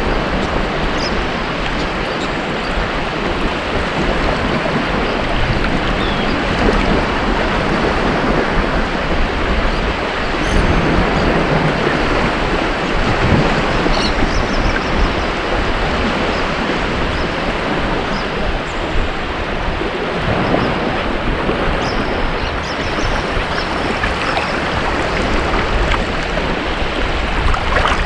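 Ocean surf washing on a beach, a dense, steady rush of breaking waves with only gentle swells in loudness.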